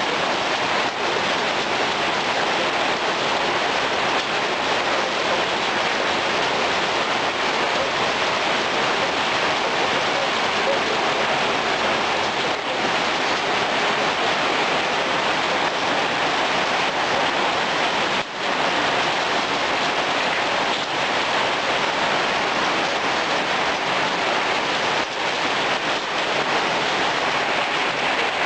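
Heavy rain pouring steadily, a loud, dense, even hiss.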